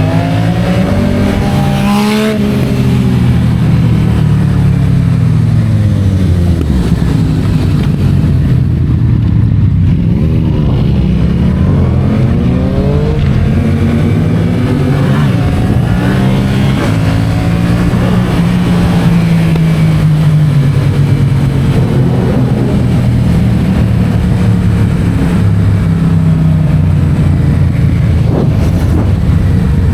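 Yamaha MT-07's parallel-twin engine through an Akrapovic titanium exhaust, under way on the road. The revs rise and fall several times through gear changes, then hold fairly steady for a while about two-thirds of the way in.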